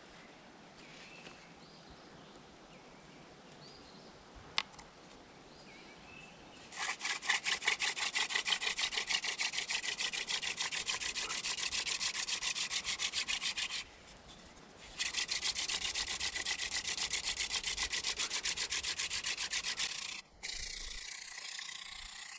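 Hand drill fire-making: a horseweed spindle spun back and forth between the palms, its tip grinding into a cedar hearth board to build hot dust toward an ember. It is a rapid, rhythmic rasping rub that starts about seven seconds in, stops for about a second midway, then resumes and stops shortly before the end.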